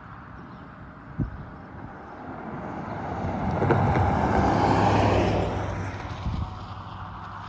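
A vehicle passing by, its sound rising to a peak about four to five seconds in and fading away, over a steady background of wind noise. A single sharp knock comes about a second in.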